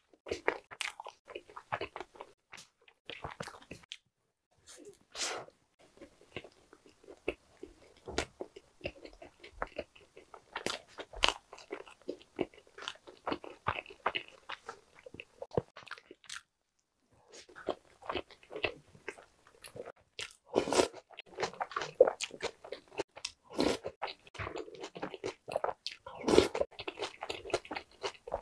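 Close-miked chewing and biting sounds of someone eating a soft, cream-filled ham and cheese sandwich, a busy run of irregular mouth clicks and chews with two short pauses.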